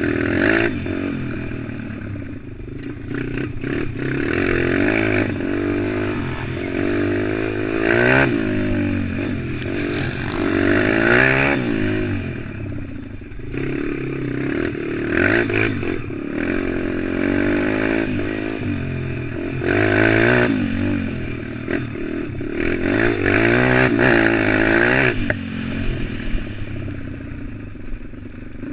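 A 140cc single-cylinder four-stroke pit bike engine being ridden, revving up and easing off over and over. The engine note dies down near the end.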